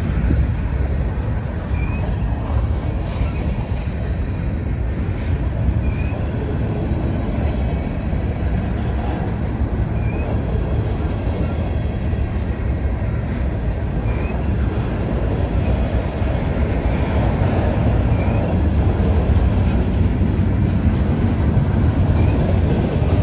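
Norfolk Southern freight train rolling past, a steady, loud rumble of wheels on rail, with a faint short high chirp about every four seconds.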